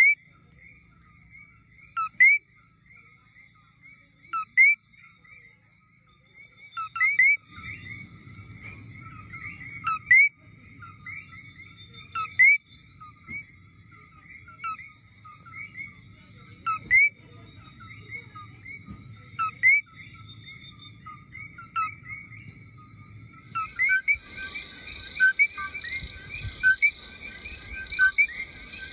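Coquí frogs calling in chorus, a short low note followed by a rising higher one. A loud call comes every two to three seconds over many fainter ones. Near the end the calling gets denser and a steady high drone joins in.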